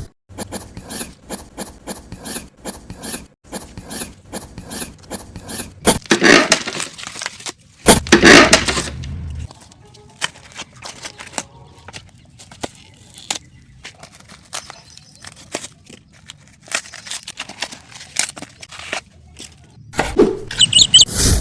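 A rapid series of short taps and clicks with rubbing and scraping, broken by two longer, louder scraping noises about six and eight seconds in.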